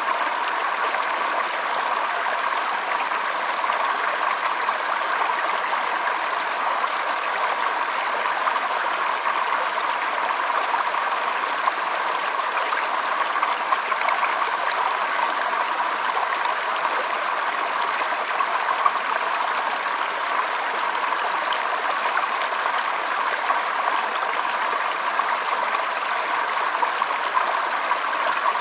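Flowing water running in a steady, unbroken rush, with no change over the whole stretch.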